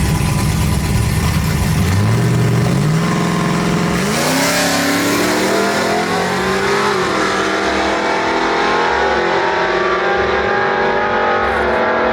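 A truck engine revving up from a low rumble to high revs about two to four seconds in, then held at high revs with the pitch wavering up and down, as in a burnout.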